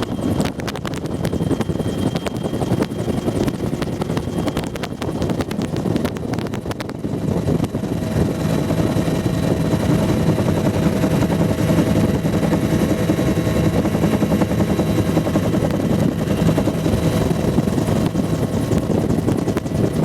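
Bell UH-1 Huey helicopter in flight, heard from a gunner seat in its cabin: a steady rush of turbine and rotor noise. It grows a little louder and steadier about seven seconds in.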